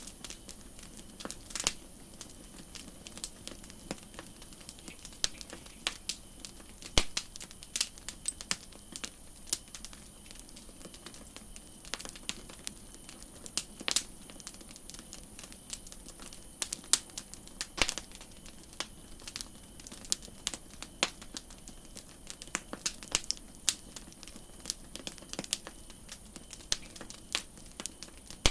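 Campfire crackling: irregular sharp pops and snaps of burning wood, several a second, over a soft steady hiss.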